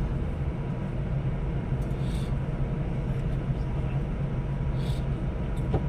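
Steady low drone of a multi-axle coach under way, engine and road noise heard from inside the cabin, with two faint short hisses about two and five seconds in.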